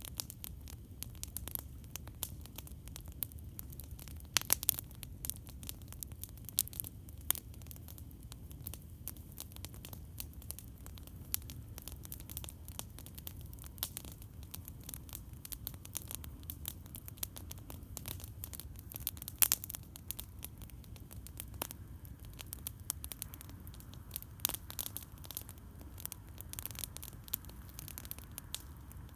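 Campfire crackling: frequent sharp pops and snaps of burning wood over a steady low rumble, with a few louder pops about four and a half seconds in and again about twenty seconds in.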